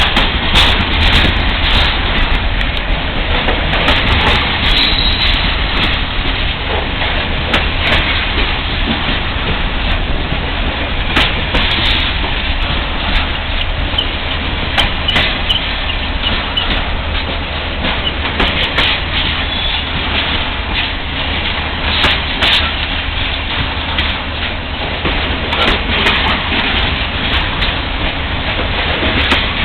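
Freight train cars rolling past, a steady rumble of steel wheels on rail with irregular sharp clicks and clanks.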